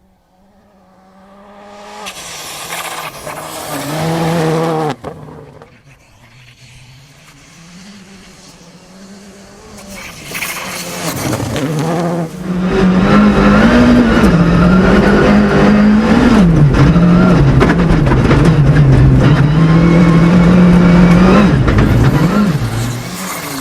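Rally car engines at full throttle on a gravel stage, revving up and dropping back through gear changes. The sound grows much louder about halfway through and stays loud, with the engine pitch rising and falling.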